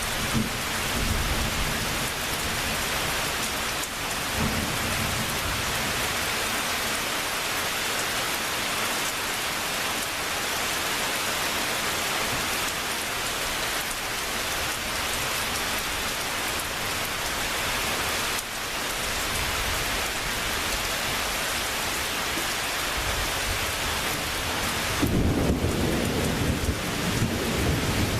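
Heavy rain falling steadily in a thunderstorm, with brief low thunder rumbles near the start and a louder rolling rumble of thunder beginning near the end.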